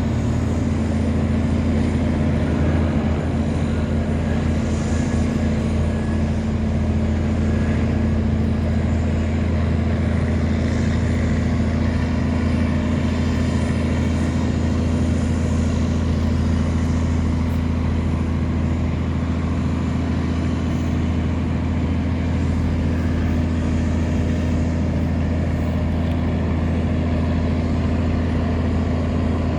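Wooden tugboat's engine running steadily under load while towing a string of loaded barges: a low, even drone.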